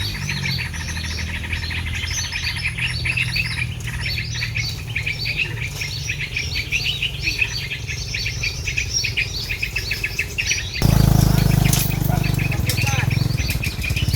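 Dense, rapid chirping and twittering of small birds, many calls overlapping, over a steady low hum. About eleven seconds in, a sudden louder rustling noise takes over.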